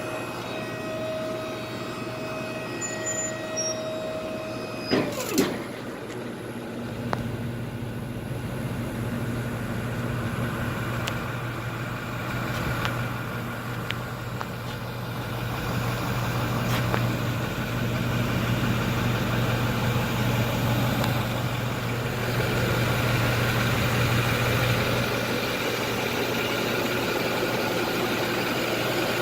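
Diesel engine of a 2010 International DuraStar 4300 medium-duty truck idling steadily. For the first five seconds a steady whine sounds over it; the whine rises in pitch as it comes on and drops away when it stops. A few light clicks follow.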